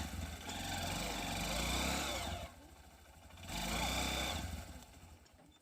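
Motorcycle engine running loud in two spells, the first about two seconds long and the second about one second, then fading away.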